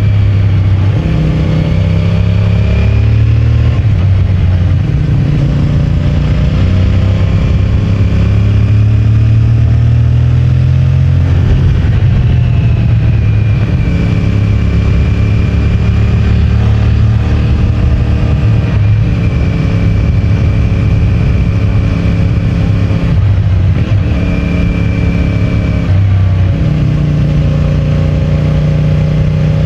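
CFMOTO 450MT's 449 cc parallel-twin engine through its stock exhaust while riding. The engine note rises and falls and steps in pitch through several gear changes.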